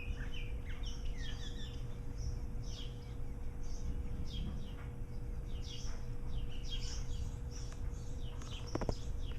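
Small birds chirping and calling repeatedly in short, quick notes, over a steady low rumble.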